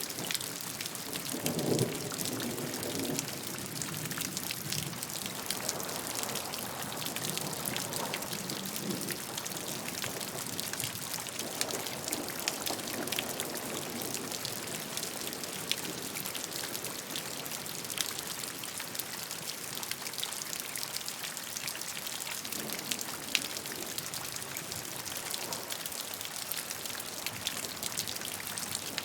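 Steady gentle rain, an even hiss with many individual drops ticking sharply on a surface throughout.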